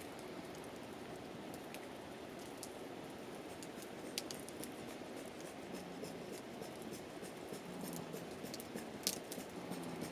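Wood campfire crackling: scattered sharp pops and snaps over a steady rush of the burning fire, with one louder pop about nine seconds in.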